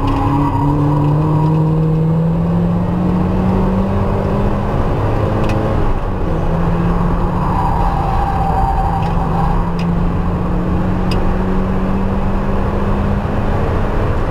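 Mazda car's engine under hard acceleration, heard from inside the cabin with road and wind noise. The revs climb, drop briefly at an upshift about six seconds in, and climb again as the car gathers speed.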